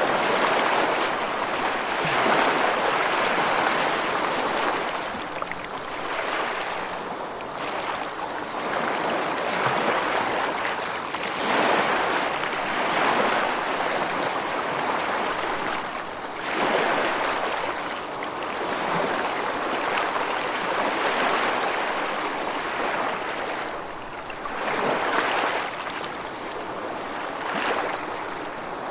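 Rushing water as a dense, steady hiss that swells and eases every few seconds.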